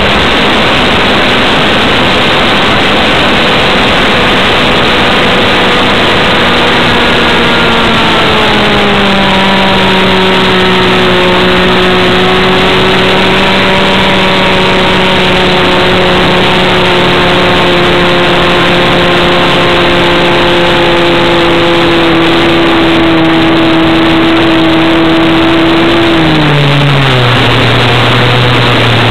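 RC airplane's Avistar 53 two-stroke engine running at high power. Its pitch steps down a little about a third of the way in, holds steady, then drops sharply near the end as the engine is throttled back.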